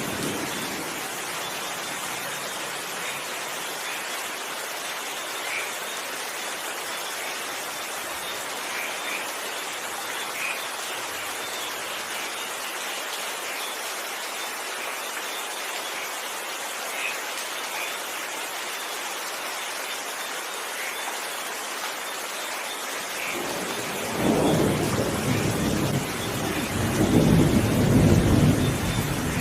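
Steady rain falling, with the tail of a low thunder rumble dying away in the first second. Near the end a new rumble of thunder starts and grows louder.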